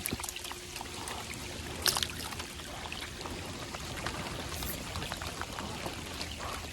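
Water trickling and splashing steadily, with scattered light taps and a sharper tap about two seconds in.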